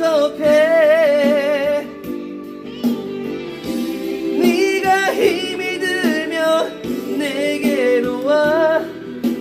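Song with a voice holding long, wavering notes with vibrato in three phrases, over steady instrumental accompaniment.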